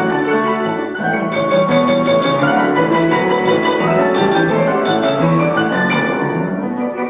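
Piano playing a classical piece, with a stretch of quick, bright notes in the upper register from about a second in until near the end.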